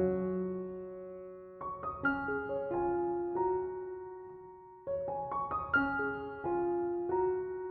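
Background music: slow, gentle solo piano. Two short phrases of a few struck notes, each settling into a held chord that fades away.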